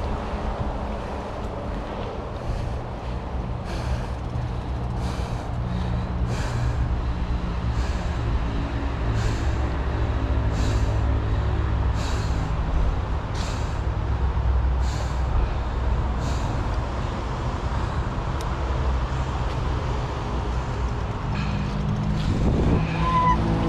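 A motor vehicle's engine running with a steady low hum, with faint regular ticks about every second and a bit.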